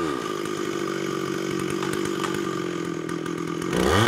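Stihl chainsaw running at full throttle through the felling cut, its pitch sagging slowly under load; near the end it drops off and revs back up.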